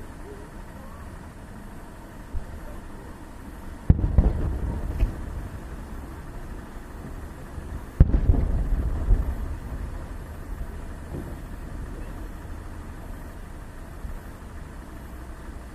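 Two fireworks shells bursting with loud booms about four seconds apart, each followed by a rolling echo and a few smaller pops, over a steady low background rumble.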